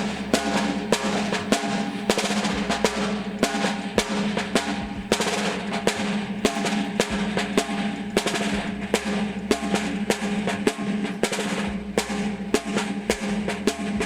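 Caixa (Brazilian snare drum) playing a marcha rancho rhythm, a steady run of strikes with rolls, over a ringing drum tone.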